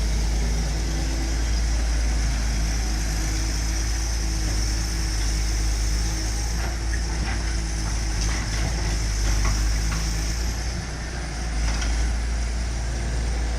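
A large engine running steadily, with a heavy low rumble throughout.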